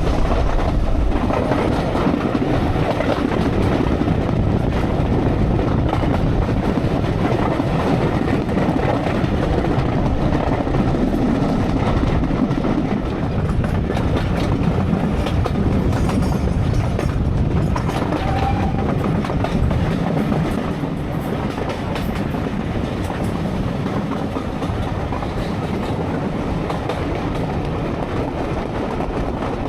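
Steam railway carriage running along the line, a steady rumble of wheels on the track heard from inside the coach. It gets a little quieter about two-thirds of the way through.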